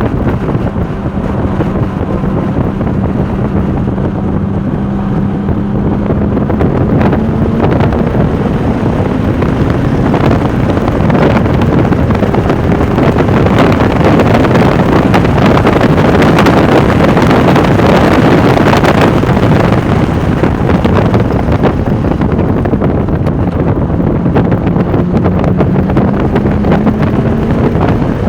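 Porsche 996 Turbo's twin-turbocharged flat-six pulling at speed, its note climbing slowly early on and again near the end, under heavy wind rush on the microphone that is loudest in the middle.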